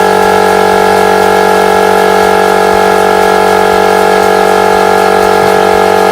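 Electric piston air compressor running steadily as it pumps up its tank, nearly at full pressure: an even, unchanging hum of several steady tones.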